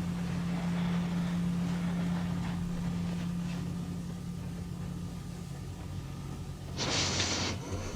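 Steady low mechanical hum that slowly fades, with a short burst of hiss about seven seconds in.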